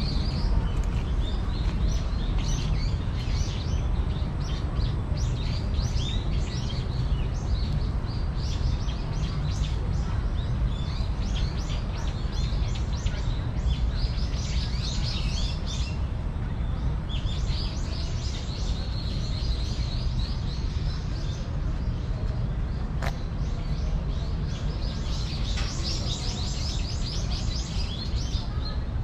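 Small birds chirping, on and off and in denser runs of quick repeated calls, over a steady low background rumble.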